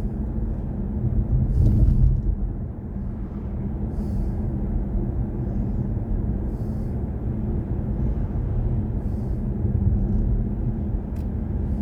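Road and tyre noise inside the cabin of a BMW i4 M50, an electric car, on the move: a steady low rumble with a faint hum. A soft high hiss comes and goes about every two and a half seconds.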